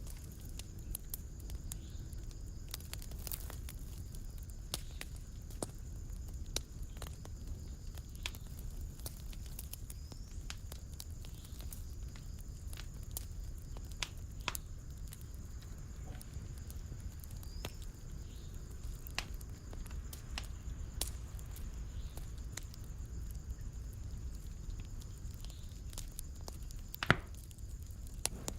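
Wood fire crackling in a fireplace: a steady stream of small sharp snaps and pops over a low rushing of the flames, with one louder pop near the end.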